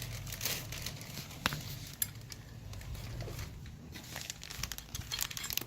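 Light rustling handling noise with a few sharp clicks as friction and steel clutch plates are handled and fitted into a motorcycle clutch basket.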